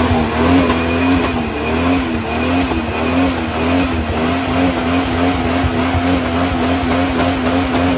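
Car engine revved up and held at high rpm, its pitch wavering slightly and regularly, over a dense roar of tyre noise: a burnout.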